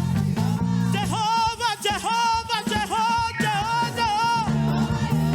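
Live gospel praise-and-worship band music with a steady bass line. From about a second in, a high voice holds several sung notes for a few seconds over the band.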